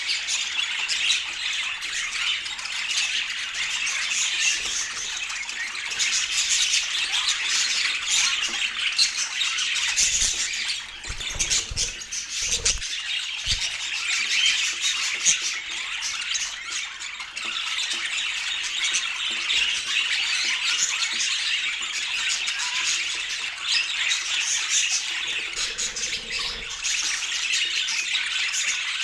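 Budgerigars chattering continuously, with a few brief low thumps near the middle.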